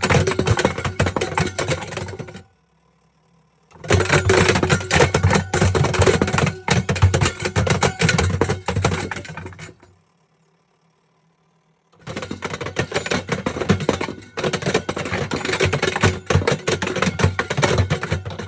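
A kettle rattling and banging against the drum of a running washing machine: a dense, rapid clatter of knocks. It comes in three stretches, cut off abruptly by near silence about two and a half seconds in and again about ten seconds in.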